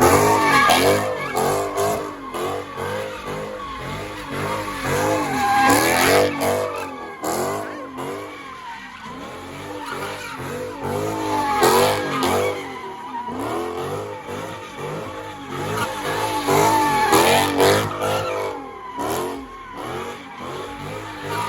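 Car engines revving hard, their pitch swinging up and down in quick repeated swells, with tyres squealing.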